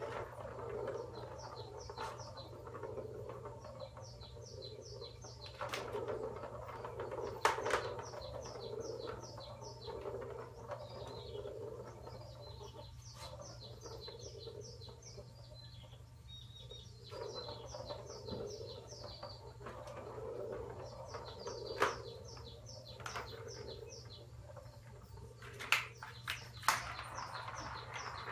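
Birds chirping in quick high trills, one run of notes after another, over a steady low hum. A few sharp knocks stand out.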